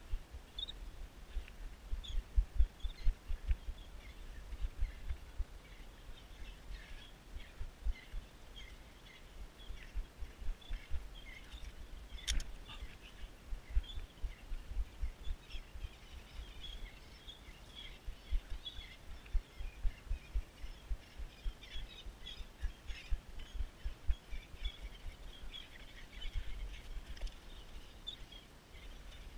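Birds chirping in many short, high calls throughout, over irregular low rumbling thumps on the microphone. A single sharp click comes about twelve seconds in.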